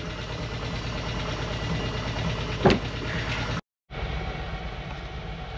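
Volkswagen Vanagon engine idling steadily while still cold after a cold start, with one sharp click about two-thirds of the way through.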